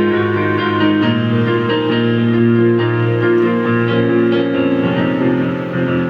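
A synthesizer keyboard playing a melody over held chords, in a piano-like voice, with the chords changing about once a second.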